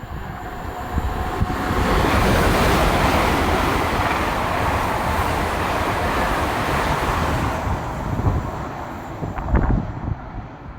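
A train passing through at speed: a rushing noise that swells about two seconds in, holds steady for several seconds and fades away near the end, with wind buffeting the microphone.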